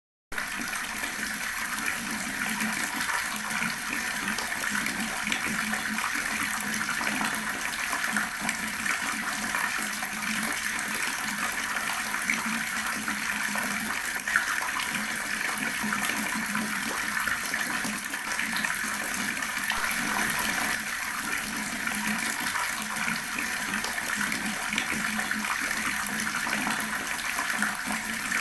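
Water from an outdoor tap running steadily, splashing and gurgling in a continuous stream.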